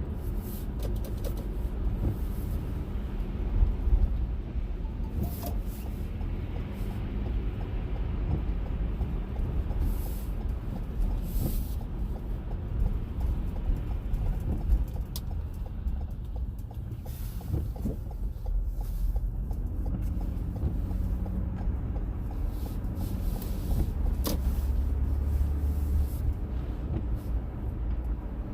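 Motor vehicle driving: a steady low rumble of engine and road noise, with a few faint clicks.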